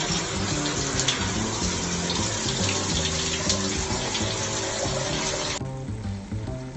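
Water running steadily from a tap, over background music; the water cuts off suddenly near the end, leaving the music.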